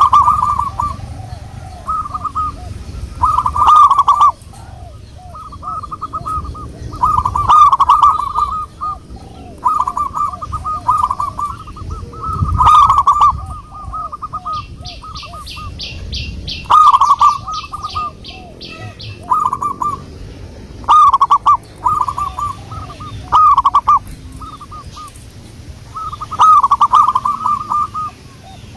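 Zebra dove cooing: repeated bouts of quick coos, each about a second long, a second or two apart. A fast series of high ticks joins in about halfway through.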